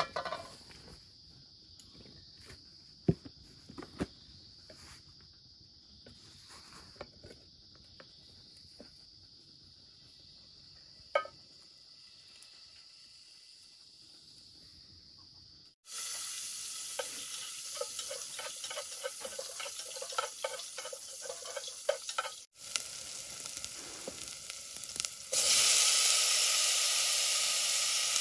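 Light scattered knocks over a steady high tone, then, after a sudden cut about halfway through, food sizzling and crackling as it fries in a pan. The sizzling gets louder near the end.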